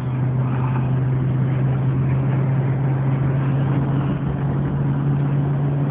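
Car cabin noise while driving through a wind storm: the engine and tyres give a steady low drone, under a constant hiss of wind and blown sand striking the car.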